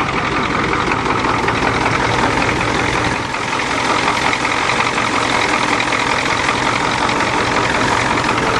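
Ford diesel truck engine idling steadily, freshly started after sitting for two months, running with no exhaust system or muffler.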